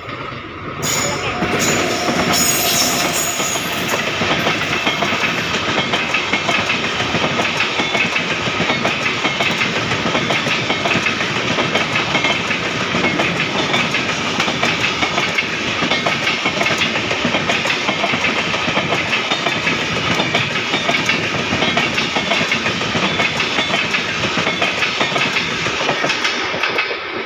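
Shatabdi Express passenger train passing through a station at speed without stopping: a loud, steady rush of wheels and air with a rapid clickety-clack of the coaches' wheels over the rail joints. It comes up sharply about a second in and drops away abruptly at the very end.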